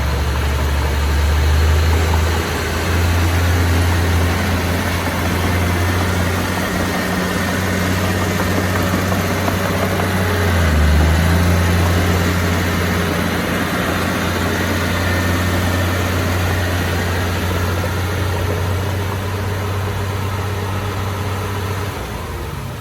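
Heavy diesel engine of earthmoving machinery running, its low drone shifting pitch a few times and easing off near the end.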